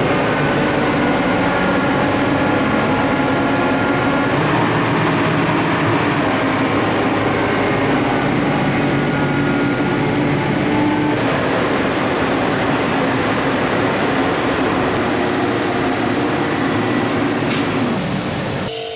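RoGator self-propelled sprayer travelling on the road, its diesel engine and drive running with a steady loud rumble and faint whines that drift slowly in pitch. The sound cuts off suddenly near the end.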